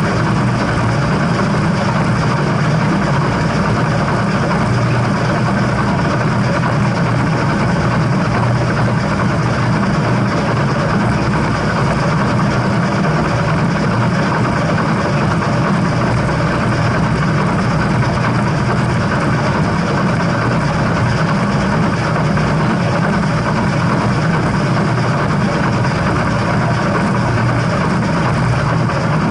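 Steam-hauled train running: a steady, loud rumble with no breaks or changes.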